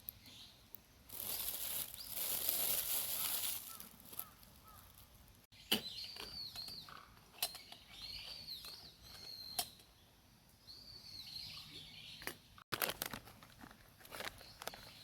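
A hissing, rustling noise lasting about three seconds, then small birds chirping among scattered clicks and taps.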